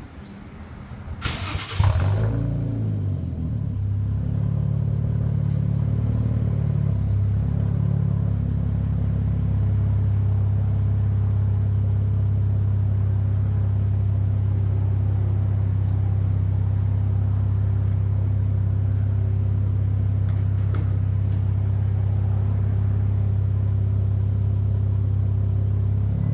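Infiniti Q60's twin-turbo V6 with aftermarket lower downpipes and a non-resonated 2.5-inch AFE catback exhaust, starting up about a second in with a brief rev flare, then settling into a steady idle.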